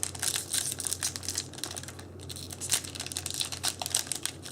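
Foil wrapper of a Yu-Gi-Oh booster pack crinkling in irregular crackles as it is worked at and pulled, the wrapper sticking and not tearing open cleanly.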